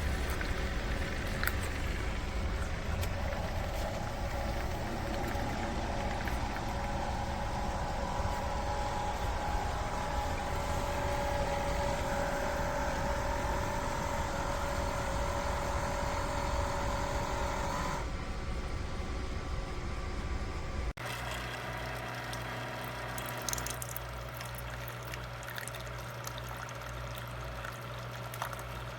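Single-serve pod coffee maker running as it heats and brews: a steady machine hum with water noise. About two-thirds of the way through it switches abruptly to a lower, steadier hum.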